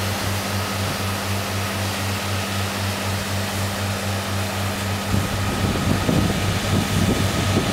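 Steady rushing noise with a low, evenly pulsing hum under it; from about five seconds in, irregular low buffeting, like wind on the microphone, joins it.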